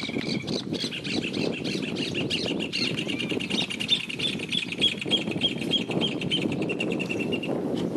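A bird calling a long run of short, high, evenly repeated notes, about three a second, that stops near the end, over steady low noise and scattered light knocks.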